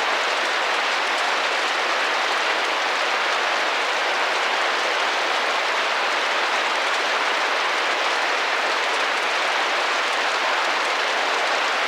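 Steady rain drumming against a window: an even hiss of many drops that does not let up.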